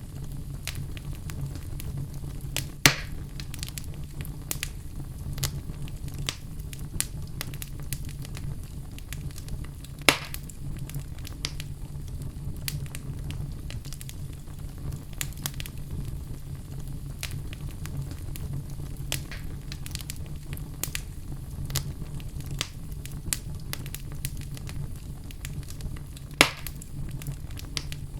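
Fire sound effect: a crackling fire with a steady low rumble and many small crackles, and three louder sharp pops spread through.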